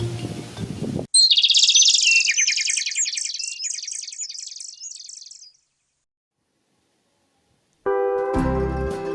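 Background music cuts off and a bird chirps in a fast, high trill of repeated notes for about four seconds, fading away; after a couple of seconds of silence, guitar music starts again near the end.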